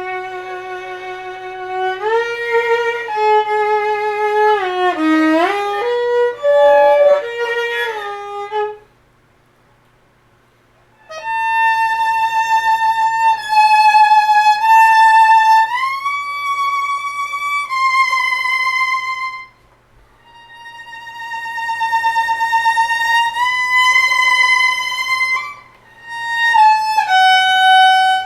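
Solo violin played with vibrato: a phrase of moving lower notes, a pause of about two seconds, then long held higher notes, each wavering evenly. This is the player working on his vibrato.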